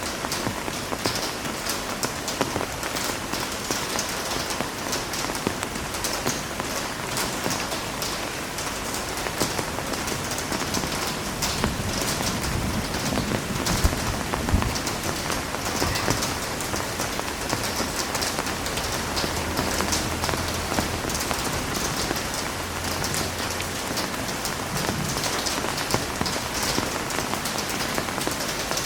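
Heavy rain falling steadily, a dense hiss of drops striking a surface with many fine ticks of individual drops.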